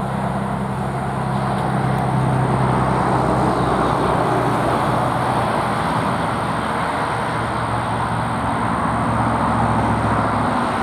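Road traffic going by, a steady rushing that swells after a couple of seconds, over a low steady engine hum that cuts off near the end.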